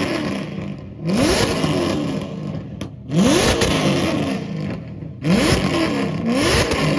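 A car engine revved hard in repeated blips, about four times, each rising steeply in pitch and then falling away.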